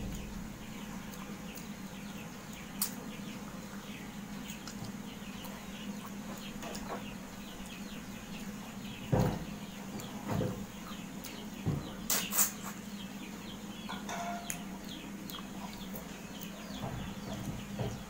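Close-up eating sounds: hand-eating with chewing and mouth sounds, and a few louder knocks and clicks around the middle. Behind them run a steady low hum and a constant patter of small birds chirping.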